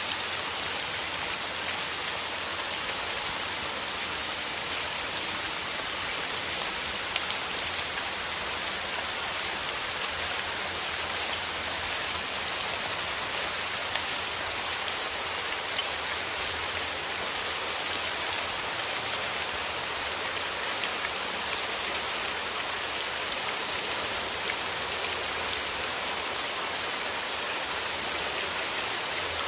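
Steady rain falling, a constant hiss with many small drop ticks, no thunder.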